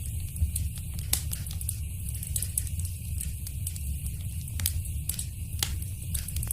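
Wood fire crackling in a fireplace: a steady low rush of burning with frequent sharp pops and snaps, a few of them louder than the rest.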